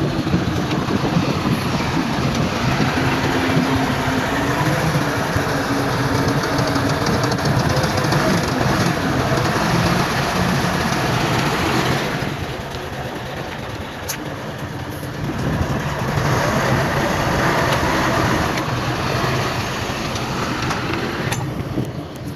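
Heavy diesel earthmoving machinery working, its engine running loud under load with a clanking rattle. It eases off about halfway through, then picks up again before dropping near the end.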